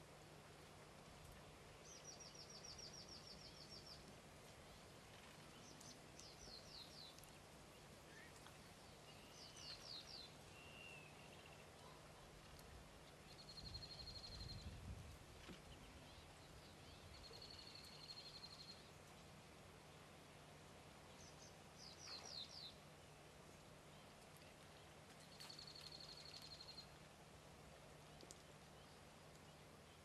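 Faint, high-pitched bird calls every few seconds: short runs of quick falling notes alternating with held thin whistles, over a steady low hum. A brief low rumble about halfway through.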